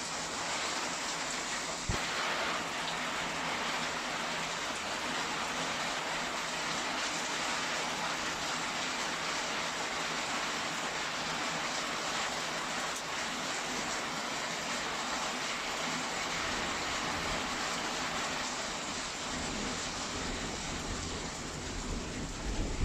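Heavy rain falling steadily, an even hiss. A single sharp tick comes about two seconds in, and a low rumble builds near the end.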